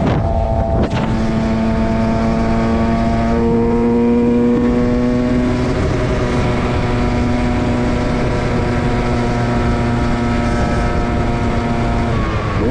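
Dirt bike engine running at a steady high rev while cruising, its note held almost constant with a brief break about a second in and a slight rise a few seconds later.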